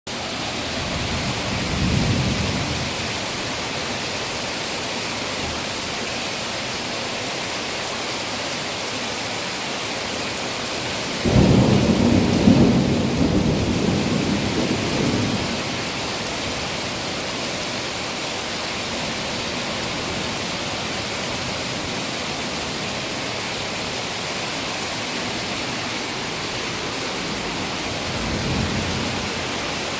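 Steady heavy rain with rolls of thunder: a low rumble swells and fades early on, a sudden louder crack-and-rumble comes about eleven seconds in and dies away over some four seconds, and another rumble builds near the end.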